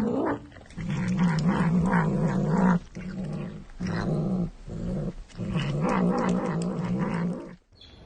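A pet animal growling: long, wavering, low growls broken by a few short pauses.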